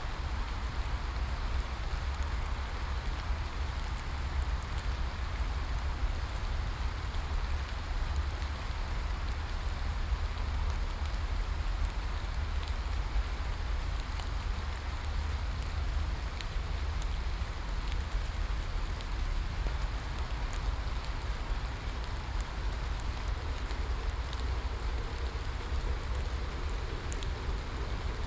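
Steady rain falling on a surface, with a constant deep rumble underneath and faint scattered ticks of single drops.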